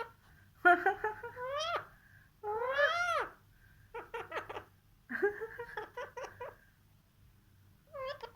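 Pet bird calling in a string of short, pitched squawks: a rising call, then a call that climbs and falls, then rapid chattering bursts, and a brief call near the end.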